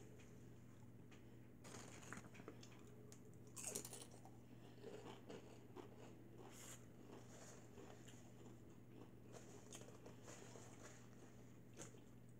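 Faint chewing and crunching of chips, with a louder crunch about four seconds in, against near silence.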